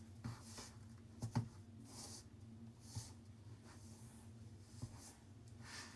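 Faint soft knocks and short rubbing sounds of dango dough being mixed and kneaded in a bowl, over a low steady hum.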